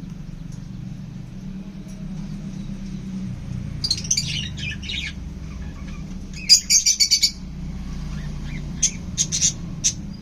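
Caged pet birds chirping and squawking in short high bursts, with a quick run of chirps in the middle and scattered calls near the end, over a steady low hum.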